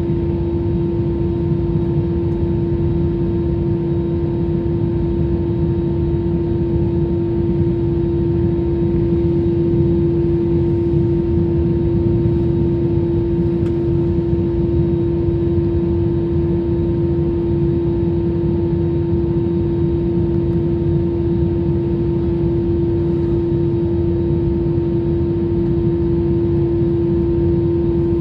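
Jet airliner cabin noise in flight: a steady rumble of engines and rushing air, with a constant droning hum running through it.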